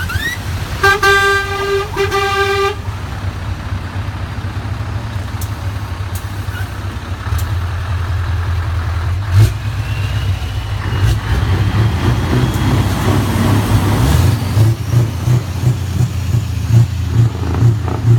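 Truck air horn blowing twice in quick succession about a second in, one long note then a short one, over the low rumble of diesel truck engines running, which turns to a lumpy pulsing near the end.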